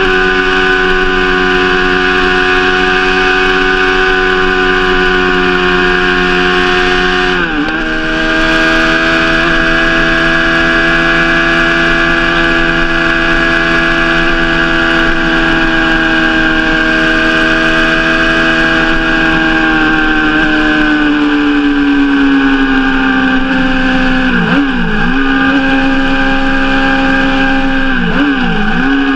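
Suzuki GSX-R600 K7 inline-four engine and exhaust running at steady revs, the pitch holding level for long stretches. It drops quickly about seven seconds in, falls gradually about two-thirds of the way through, and dips briefly twice near the end.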